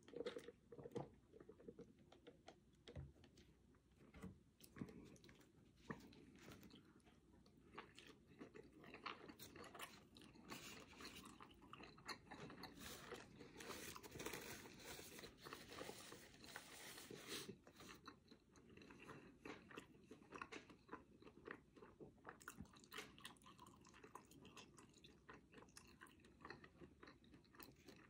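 Faint, close-miked chewing and biting of a bacon cheeseburger and fries, with small crunches throughout. A paper napkin rustles for several seconds in the middle.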